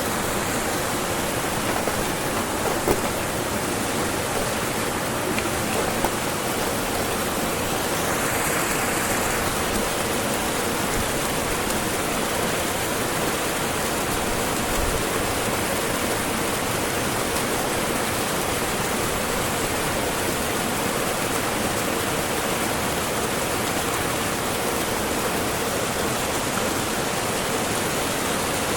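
Steady rush of a waterfall and river water, with a couple of faint knocks in the first few seconds.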